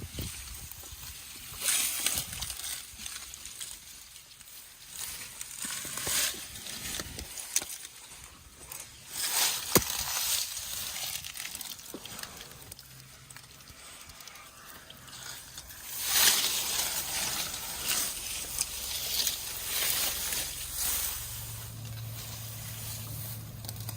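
Leafy branches rustling and crackling in irregular bursts as elephant calves tug at and chew them, with a single sharp snap near the middle.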